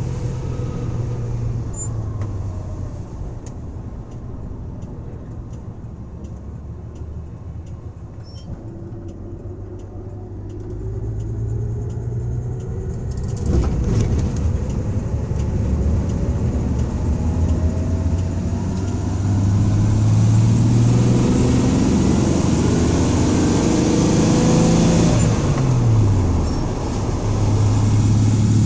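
1984 Dodge van's engine pulling under hard acceleration, its pitch climbing steadily and the sound getting louder, with a sharp thump about halfway through; near the end the pitch drops quickly, then it settles into a steady drone. The van is being run at wide-open throttle to check for a suspected misfire.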